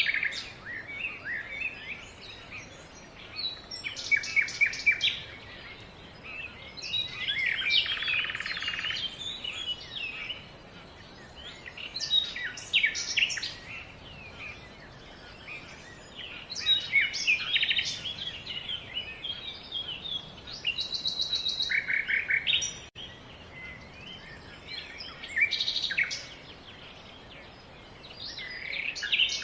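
Songbirds singing and calling: phrases of quick chirps and trills every few seconds, with quieter gaps between, including a steady run of rapid repeated notes about three-quarters of the way through.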